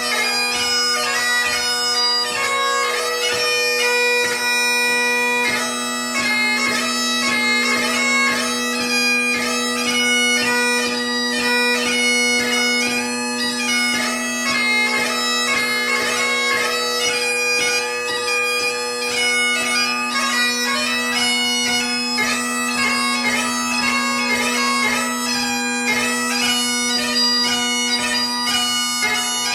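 Solo Great Highland bagpipe playing light music: a constant drone under a quick chanter melody, cut by many rapid gracenotes.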